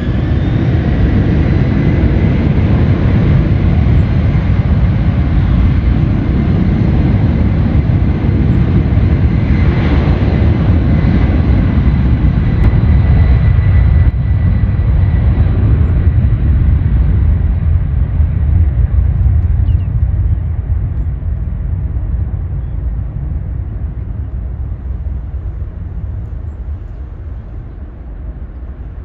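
Jet airliner passing: a loud, low engine rumble with a steady high whine, loudest around the middle and fading over the last ten seconds.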